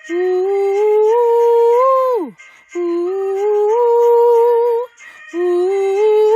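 Vocal 'ooh' phrases, each about two seconds long, climbing in small steps. The first ends in a steep downward pitch slide, and the second stops without one. Separated by short pauses, a third phrase begins near the end.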